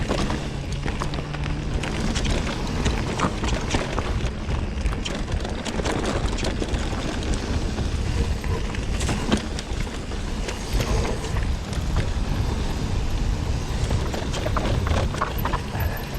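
Mountain bike rolling fast down a dirt trail: tyres rumbling and crunching over earth and stones, with a steady clatter of small knocks and rattles from the bike.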